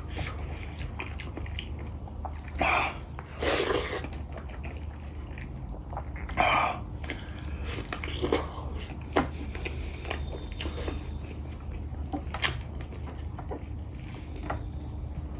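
Close-up eating sounds: chewing and mouth noises, with a few louder wet smacks or slurps and several short clicks, over a steady low hum.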